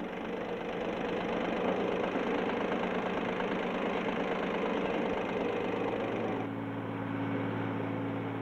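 Ford 1710 compact tractor's three-cylinder diesel engine running steadily at high revs, driving a PTO post-hole digger. About six and a half seconds in the sound changes to a lower, smoother engine note.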